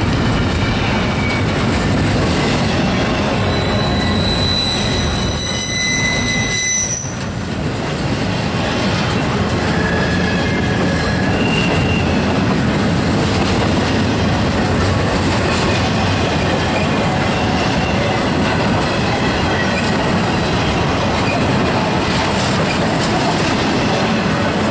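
Intermodal freight train's cars rolling past close by: a steady, loud rumble of steel wheels on rail, with high wheel squeals several times, loudest about four to seven seconds in.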